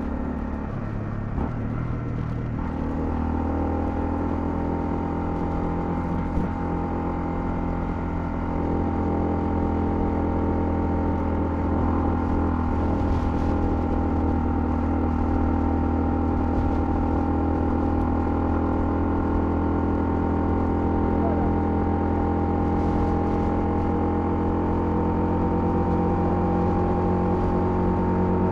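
Honda CL250 motorcycle engine running under way while riding, a steady engine note. The pitch shifts about two seconds in, like a gear change, then holds steady as it grows slightly louder.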